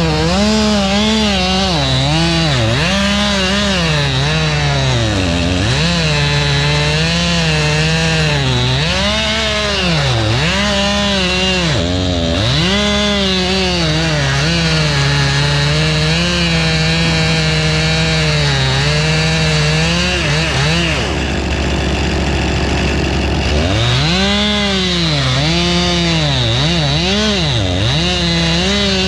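Two-stroke chainsaw cutting wood, its pitch rising and falling again and again as it is throttled up and pulled down under load. It breaks off for a couple of seconds a little after two-thirds of the way through, then resumes. A steady low engine drone runs underneath throughout.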